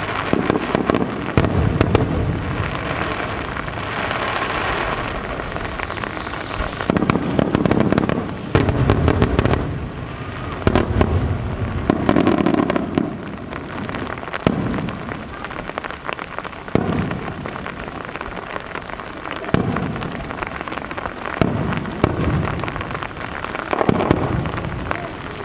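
Aerial fireworks bursting one after another at irregular intervals, each a deep boom, over the steady hiss of falling rain.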